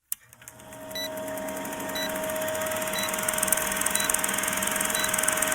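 A steady electronic hum with a constant mid-pitched tone, fading up over the first second, with a short high beep repeating once a second.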